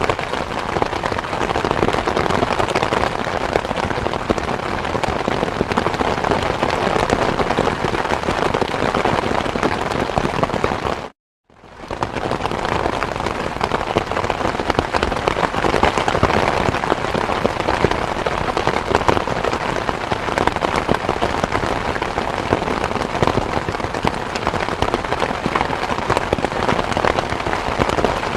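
Steady heavy rain falling, a dense hiss of countless drop hits. A little over ten seconds in it cuts to silence for about half a second, then comes back in quickly and carries on as before.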